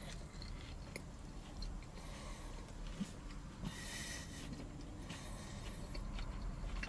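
A man quietly chewing a mouthful of burger with his mouth closed, with a few soft breaths through the nose and small mouth clicks.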